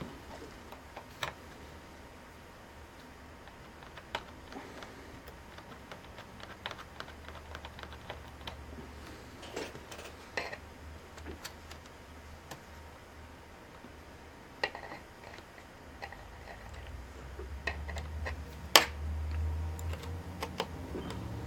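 Scattered light clicks and taps of plastic laptop parts and small screws being handled and fitted during reassembly, with one sharper click near the end. A low rumble rises in the last few seconds.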